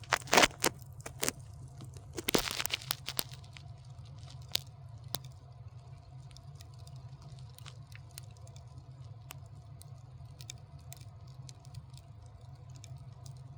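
Fire crackling: two quick runs of sharp pops, in the first second and again around two to three seconds in, then scattered single pops over a steady low hum.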